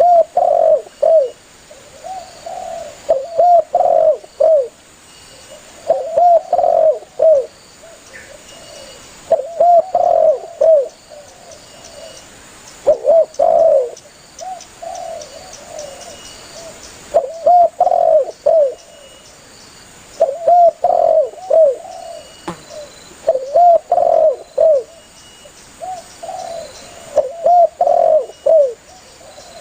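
Spotted dove cooing: a phrase of several low coos, repeated about every three seconds, the call it uses to call other doves in.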